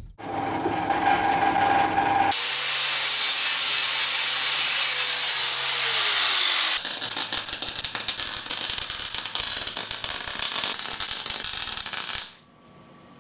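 A power tool runs with a steady whine, then louder with a hiss, its motor note sinking as it slows about six seconds in. Then comes about five seconds of dense crackling welding, laying tack welds to pin captive nuts on a backing plate, which stops suddenly near the end.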